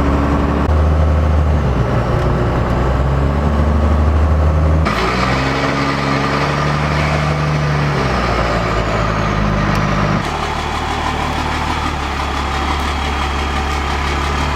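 A vehicle engine running steadily with a deep low rumble, changing abruptly about five seconds and ten seconds in.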